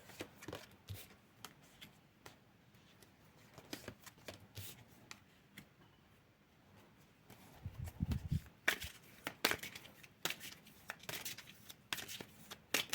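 Tarot cards being handled and shuffled: scattered light rustles and clicks, turning into a run of quick card flicks over the last few seconds, with a soft low bump about eight seconds in.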